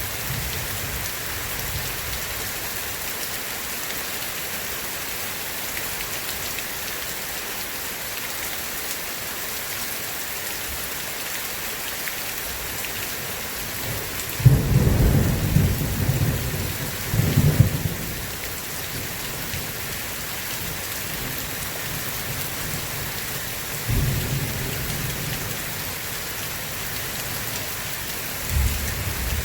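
Steady rain hiss with rolls of thunder: the loudest rumble comes about halfway through and swells twice over some four seconds, with shorter rumbles later and again near the end.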